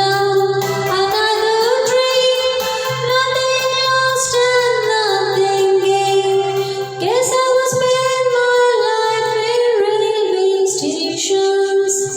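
Closing bars of a song: a singing voice holds long wordless notes that step between pitches over a steady low drone, and the music stops about twelve seconds in.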